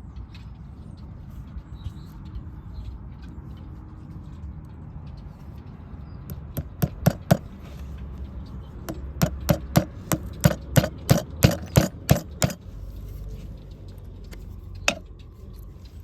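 Farrier's hammer striking in quick, sharp blows: a short run of about four about six and a half seconds in, then a longer run of about a dozen at roughly three a second, with a single knock near the end.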